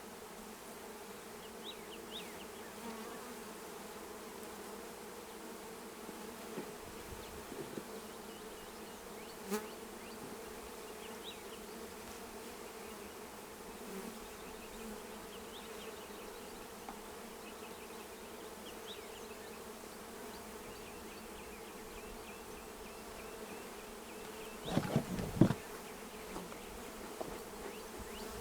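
A colony of honeybees buzzing steadily around an open hive, a low even hum. A brief cluster of knocks comes near the end.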